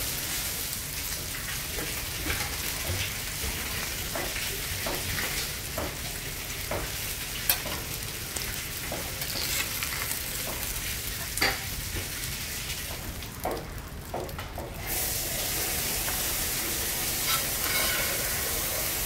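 Egg-battered pollack fillets sizzling in oil on a flat steel griddle, a steady hiss, with scattered short clicks and scrapes of a metal spatula on the griddle. The sizzle drops briefly about two thirds of the way through, then comes back.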